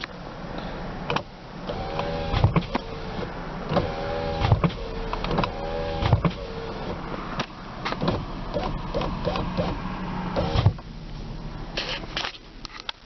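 Power window motors of a 2002 Nissan Pathfinder whirring in short runs, three times between about two and six seconds in. Each run ends with a thump as the glass reaches its stop, and shorter runs and clicks follow later. A steady low hum from the idling engine sits underneath.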